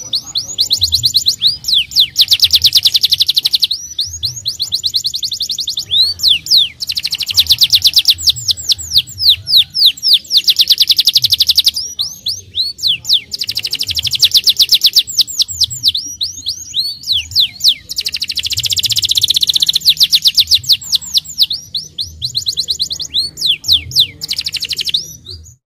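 Domestic canary singing long rolling phrases of fast, rapidly repeated chirps, in loud bursts of a few seconds with short pauses between; the song cuts off suddenly near the end.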